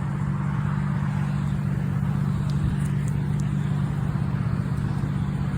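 Car engine idling steadily, a constant low drone.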